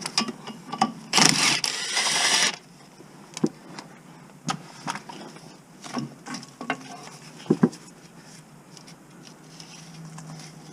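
Metal tools clicking and knocking during mechanical work, with one loud noisy burst lasting about a second and a half near the start.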